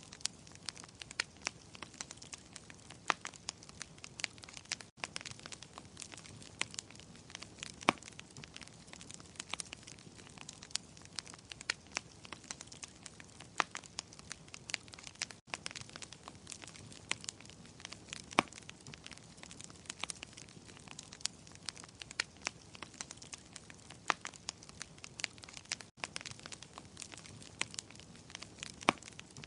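Wood fire crackling in a fireplace: frequent, irregular sharp pops and snaps over a soft steady hiss, with a momentary dropout about every ten seconds.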